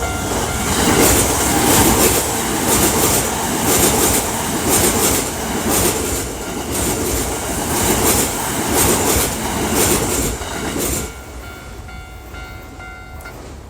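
Toei 10-300 series electric train passing a level crossing at speed, its wheels clacking over the rail joints bogie after bogie. About 11 seconds in, the last car clears and the crossing bell's ringing tone is heard again.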